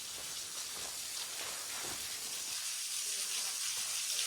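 Waterfall: the steady hiss of falling, splashing water, growing slightly louder toward the end.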